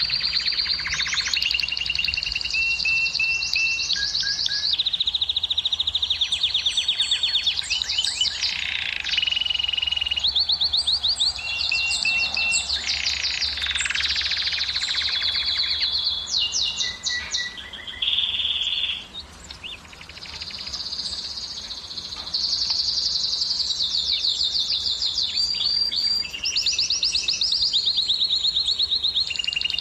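Domestic canary singing a continuous song of fast trills: rapid runs of repeated notes that switch to a new pitch every second or so. There is a brief break about two-thirds of the way through.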